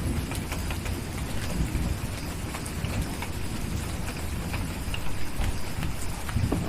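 Steady rain with the low rumble of distant thunder dying away at the start, and scattered sharp crackles from a wood fire.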